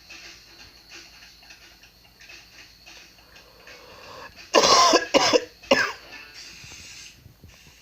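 A man coughing hard three times, about half a second apart; the first cough is the longest.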